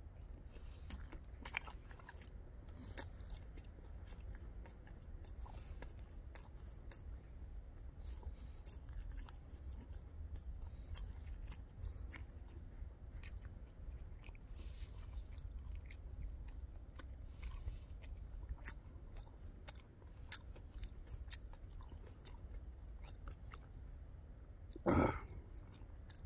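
A person chewing food close to the microphone, with many small wet clicks and crunches. A brief louder sound comes about a second before the end.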